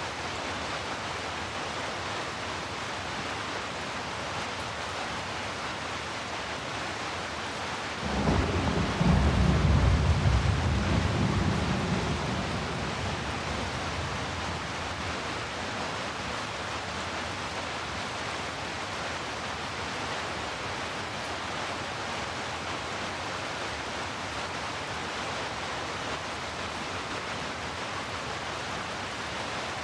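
Steady heavy rain layered with brown noise, with a roll of thunder breaking in about eight seconds in, rumbling low for a few seconds and then fading away.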